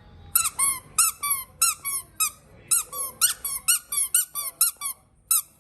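Squeaky baby toy squeezed over and over: a quick, uneven run of about twenty short squeaks, roughly four a second, each bending in pitch. The squeaks stop shortly before the end.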